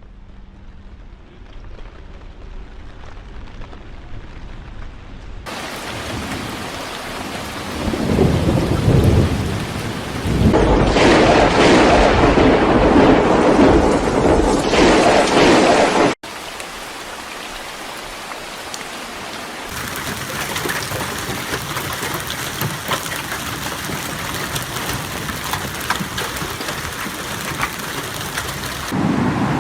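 Hailstorm: hail and heavy rain pelting down in a dense, steady clatter, in several cut-together clips that change abruptly. It is loudest for a stretch in the middle.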